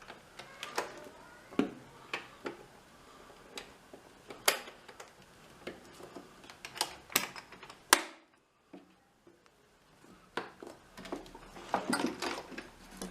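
Irregular clicks and knocks of small hard objects being handled on a workbench. The loudest knock comes about eight seconds in and is followed by a couple of seconds of near silence before the clicking resumes.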